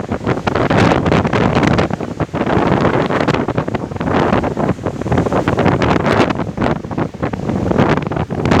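Wind buffeting the microphone, a loud rough rush that rises and falls in gusts.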